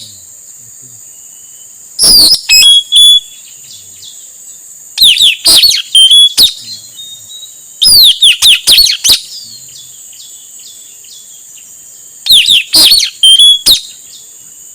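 Male puling (nuri tanau) parrot calling: four loud volleys of sharp, shrill, down-slurred screeches, each a rapid run of several calls lasting a second or so, with a few seconds of pause between volleys. It is a recorded lure call for drawing in wild birds, over a steady high hiss in the background.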